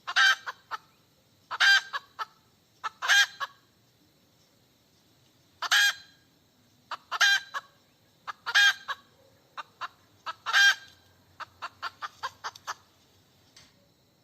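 Hen cackling: seven loud, drawn-out squawks, each led by one or two short clucks and coming every one and a half to two seconds with a pause partway through, then a quick run of short clucks near the end. The owner takes this cackling for the hen calling for a mate.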